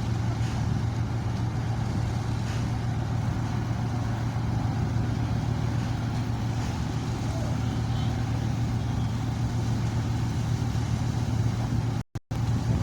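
Steady low drone of a ship's diesel engine running during a docking maneuver. The sound cuts out twice briefly near the end.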